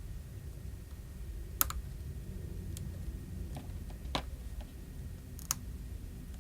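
A few sharp, light clicks and taps, three of them louder, from small tools and phone parts being handled during the repair, over a low steady hum.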